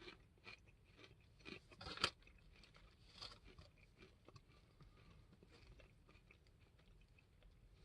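Barbecue potato chips being chewed with the mouth close by: a few sharp crunches in the first two seconds, the loudest about two seconds in, then softer, quieter chewing.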